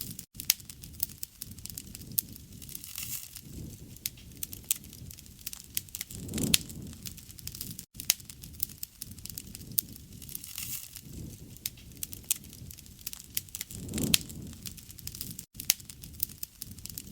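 Campfire burning: dense crackling with frequent sharp pops over a low rumble of flames that swells about every seven or eight seconds.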